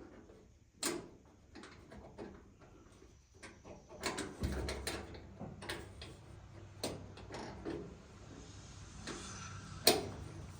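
Scattered metal clicks and knocks from a door latch rod being worked into the latch inside a square-body Chevrolet truck door, with a dull thump about four seconds in and one sharp click near the end.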